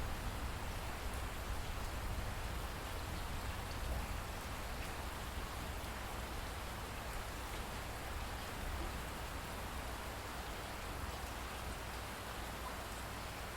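Steady rain falling, an even hiss of rain on a surface with faint scattered drop ticks.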